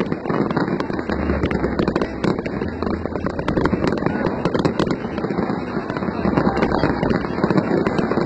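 Aerial fireworks bursting over a city, a dense, unbroken run of bangs and crackles, several a second.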